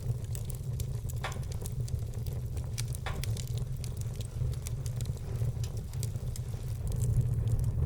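Wood fire burning: dense, irregular crackles and small pops over a steady low rumble, with two louder pops in the first few seconds.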